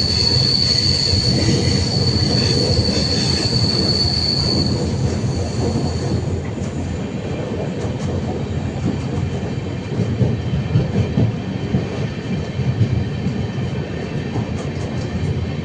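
Indian Railways passenger train running on the track. A high, steady wheel squeal sounds over the rumble of the wheels for the first few seconds and fades out about five seconds in. After that the wheels rumble on, with irregular clacks over the rail joints.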